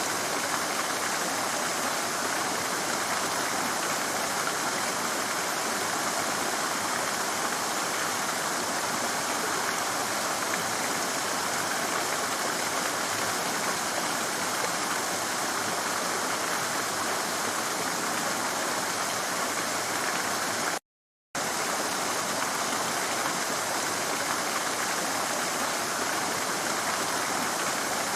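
Rushing stream splashing over rocks, a steady, even rush of water. It cuts out to silence for about half a second roughly three-quarters of the way through, then carries on the same.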